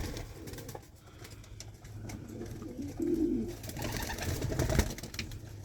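Domestic pigeons cooing softly in a loft, with a short louder coo about three seconds in.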